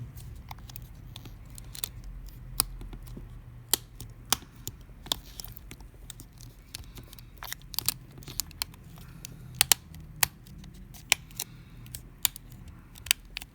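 Small, sharp, irregular clicks and taps of a precision screwdriver and tiny screws being fitted into a Samsung Galaxy S9 Plus's frame during reassembly, over a faint low hum.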